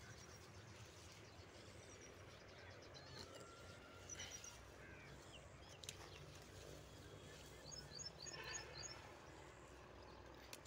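Quiet outdoor background with faint bird chirps, including a quick run of short high chirps about eight seconds in.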